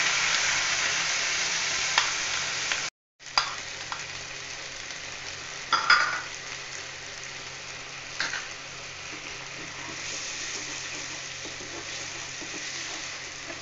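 Onion, ginger and garlic paste sizzling in hot oil and butter in a kadai, loud at first, then quieter after a brief break about three seconds in. A few sharp knocks and scrapes come from a wooden spatula stirring the paste in the pan.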